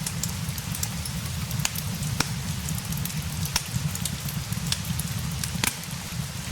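Rain and fireplace ambience: a steady low rush of rain with irregular sharp crackles and pops of burning wood, two louder pops about two and five and a half seconds in.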